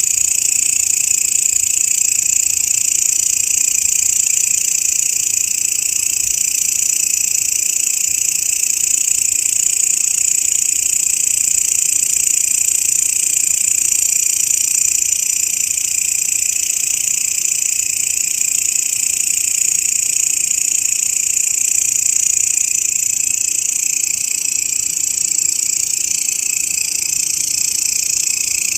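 Grasshopper stridulating: a continuous, high-pitched insect buzz that holds steady without a break.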